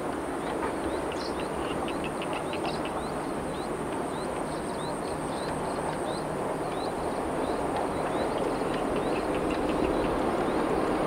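Steady low rumble of a train still out of sight, growing slowly louder toward the end as it approaches, with many short bird chirps over it.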